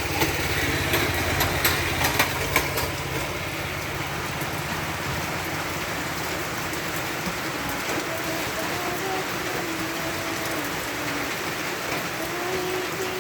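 Heavy rain falling steadily, with a few sharp taps in the first three seconds.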